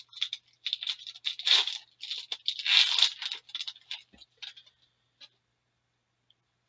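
Foil wrapper of an Upper Deck Artifacts hockey card pack crinkling and tearing as it is opened, a quick flurry of short crackles that dies away about five seconds in.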